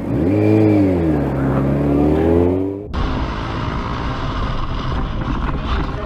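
Motorcycle engine revving, its pitch rising, sagging and rising again, then cut off abruptly about three seconds in. Steady low road and wind rumble follows.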